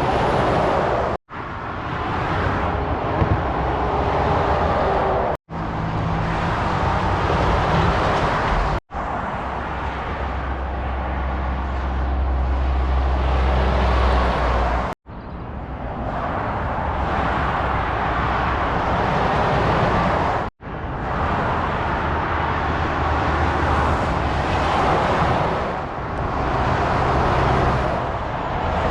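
Motorway traffic with lorries passing at speed: a steady tyre hiss over a low engine drone. It is broken five times by sudden, very short cuts to silence.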